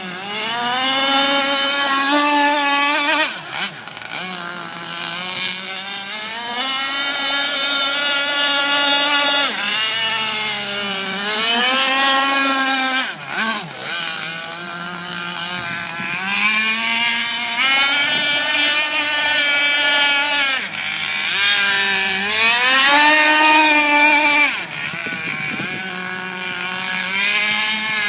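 Fuel-powered radio-controlled model boat engine running hard at high revs, its pitch climbing and dropping again and again as the throttle opens and closes.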